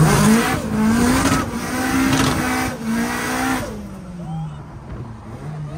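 A drift car's engine revving hard several times, its pitch climbing with each rev. After about three and a half seconds it drops away to a quieter, lower running note.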